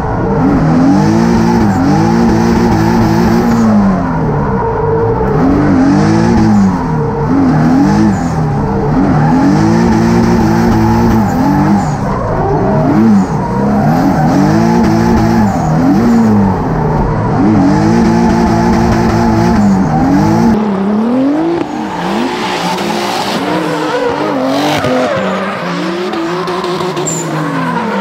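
Twin-turbo 3.8 V6 from a Genesis Coupe, in a G35 coupe drift car, heard from inside the cabin, revving up and falling back over and over, a surge every two seconds or so, as the throttle is worked through a drift. About two-thirds of the way in the engine note drops lower and tyre squeal and skidding take over.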